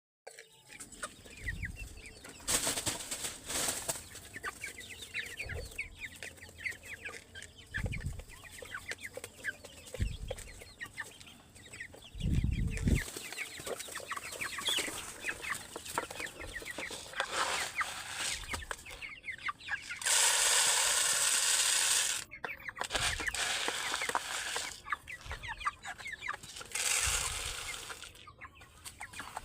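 Chickens clucking steadily while they feed. A few low thumps come in the first half, and a loud two-second rush of noise comes about two-thirds of the way through.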